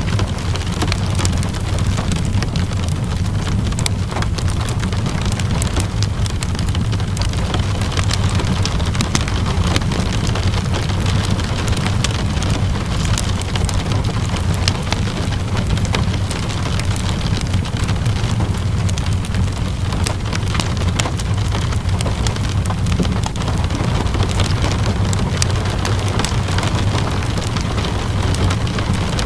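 Steady rainfall with a continuous low rumble, scattered with many small sharp pops and crackles from a wood fire burning in a fireplace.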